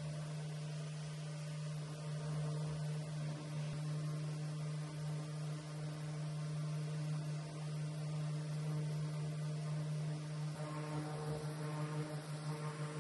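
An electric motor running with a steady low hum and a few higher overtones. The hum wavers and pulses more in the last couple of seconds.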